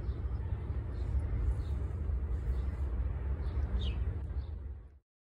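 A steady low rumble, like wind or handling noise on the microphone, with a few faint high chirps. The audio cuts off suddenly near the end.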